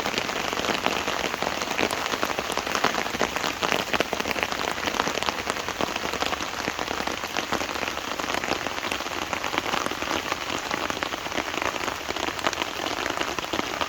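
Steady rain, with a dense, continuous pattering of drops striking a surface close to the microphone.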